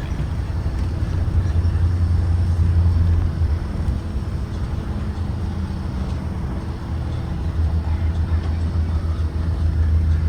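Blue Bird Vision propane school bus running, a steady deep engine and road rumble with a faint hum. It eases off a little a few seconds in and builds again near the end.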